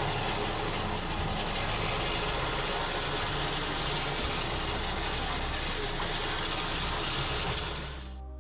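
An engine running steadily, which cuts off abruptly near the end.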